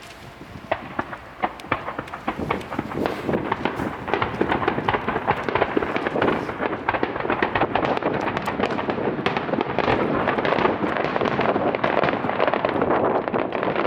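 Starmine fireworks barrage: scattered bangs of shells bursting begin about a second in and build into a dense, near-continuous volley of overlapping bursts.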